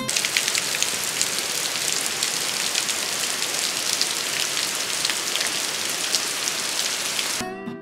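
Heavy rain falling steadily, a dense hiss dotted with many sharp drop hits; it cuts off suddenly near the end.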